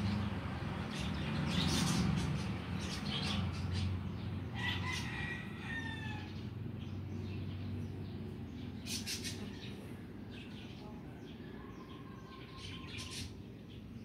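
Birds calling in short chirps and whistles, one falling call about five seconds in, over a low steady hum that fades away during the first half.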